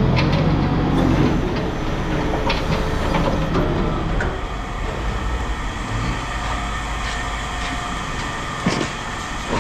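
Heavy engine running steadily, with scattered metallic clanks and knocks over it.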